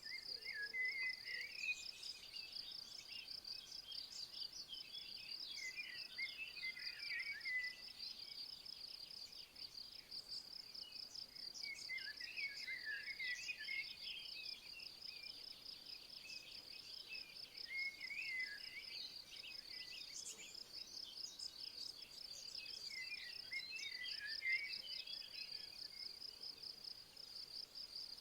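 Steady, high-pitched chirring of insects with a fast even pulse, under a songbird singing short warbled phrases every few seconds.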